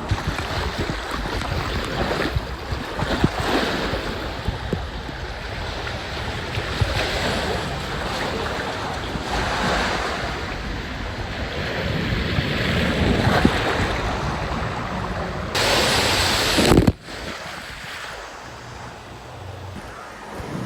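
Water rushing with wind noise on the microphone. About three-quarters of the way through, a louder burst of splashing lasts about a second and cuts off abruptly.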